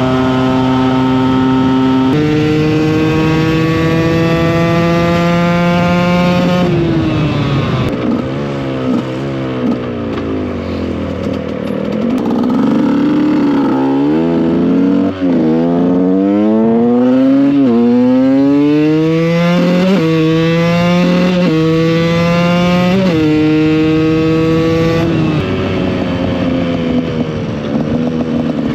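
KTM EXC 125 two-stroke single-cylinder engine pulling through the gears. Its pitch climbs steadily and drops at each upshift. It slows down about a third of the way in, then makes several quick rev climbs and shifts before easing off near the end.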